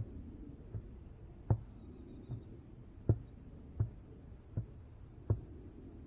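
A series of dull thumps, evenly spaced at about one every three-quarters of a second.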